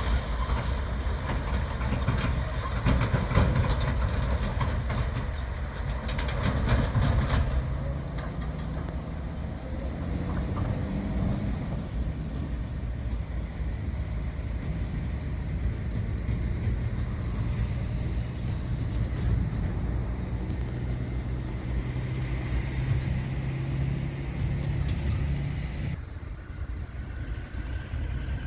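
Diesel freight locomotive running with a steady low drone, with rattling and clatter from the train over the first several seconds. The engine sound drops off suddenly near the end.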